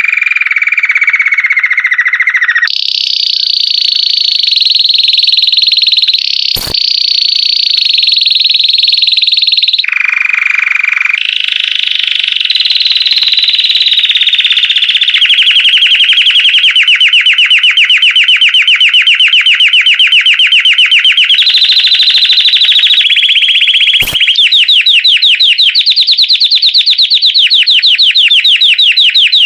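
Belgian canary (domestic canary) singing a loud, continuous song of rolling trills, shifting to a new pitch every few seconds and breaking into fast repeated notes in the second half. Two brief clicks cut across it, a quarter of the way in and near the end.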